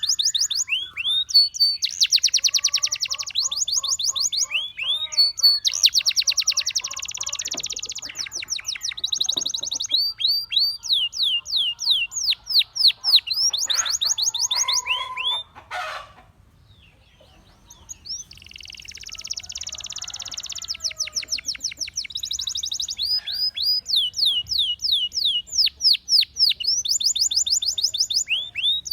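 Gloster canary singing a long song of fast trills: rapid runs of repeated high, downward-sweeping notes alternating with dense buzzy rolls. It breaks off for about a second and a half just past the middle, then resumes.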